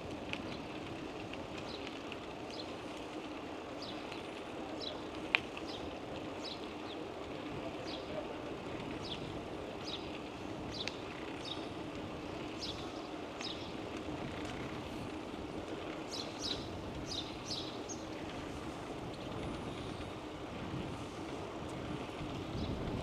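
Steady rolling and wind noise of a bicycle ride, with short high chirps scattered throughout and a single sharp click about five seconds in.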